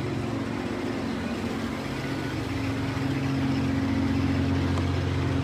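An engine idling with a steady low hum, growing a little louder about three seconds in.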